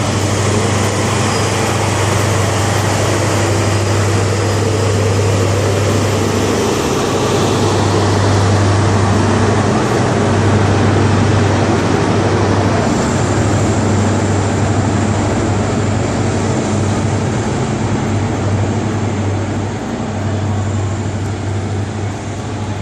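A GWR High Speed Train (class 43 diesel power cars) pulling out of the station, its diesel engines giving a steady low drone over wheel and rail noise. A thin high whine joins about halfway through, and the sound eases slightly near the end.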